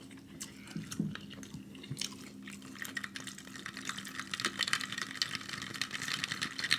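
Juice being poured into a cup: a light splashing trickle that gets denser and steadier from about three seconds in.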